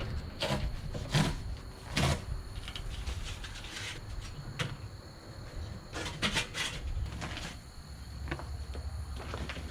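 Scattered knocks and clunks from a Weber kettle charcoal grill and its gear being handled, with wind rumbling on the microphone.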